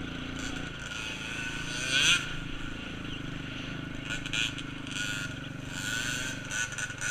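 Small off-road engine, a dirt bike or four-wheeler, running steadily, with a brief louder rising burst about two seconds in.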